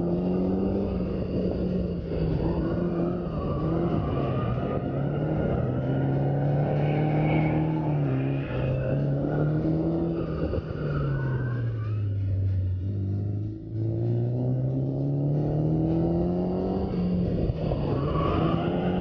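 Drift car's engine heard on board as the car is driven through corners, the revs rising and falling repeatedly. The pitch sags to its lowest a little past the middle, breaks off briefly about two-thirds of the way through, then climbs again.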